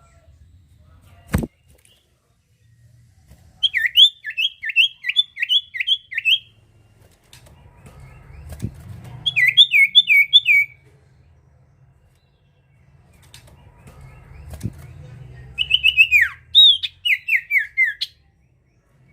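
Sirtu songbird singing in three quick runs of repeated, high, downward-slurring notes, with a low background rumble and a sharp click near the start.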